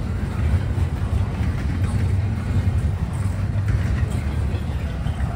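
A train passing close by, a steady low rumble.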